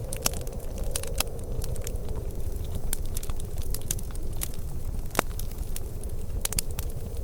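Wood fire crackling, with frequent irregular sharp pops, one standing out about five seconds in, over a steady low rumble.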